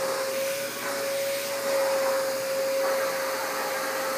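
Vacuum cleaner running steadily: a constant rushing hiss of air with a steady whine.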